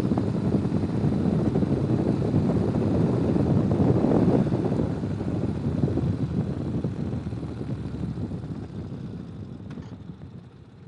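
Ural sidecar motorcycle's flat-twin engine running under way, with a dense low rumble of engine and ride noise. The sound fades steadily over the last few seconds.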